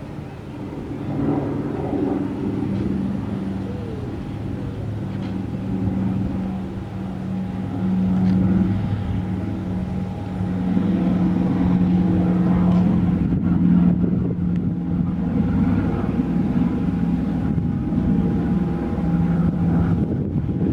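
An engine running steadily, with a low hum and a fainter higher whine held at an even pitch, getting louder about ten seconds in.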